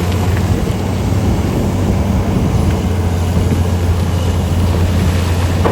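Heavy diesel engines of Komatsu mining machines running with a steady low drone. There is wind on the microphone.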